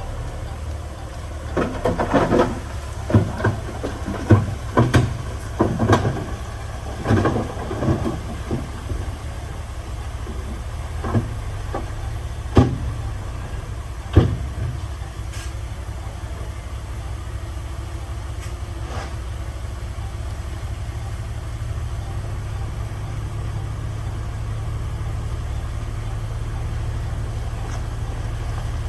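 A heavy diesel earthmoving machine's engine running low and steady. Irregular sharp knocks and clanks of stone and metal come over roughly the first fifteen seconds, then only the engine continues.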